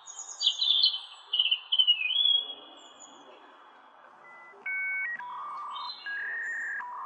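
Quick, bird-like chirps and whistled glides for the first couple of seconds, then a series of steady held tones, one or two at a time, each switching on and off abruptly, over a faint hiss.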